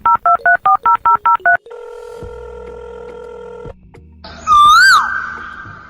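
Telephone keypad tones: a rapid run of short two-note beeps, about six a second, then a steady ringing tone for about two seconds. About four and a half seconds in comes a louder tone that swoops up and down, then trails off.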